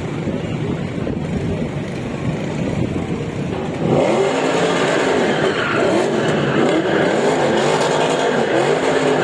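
Sports car engines running loudly. From about four seconds in they rev up and fall back repeatedly, roughly once a second.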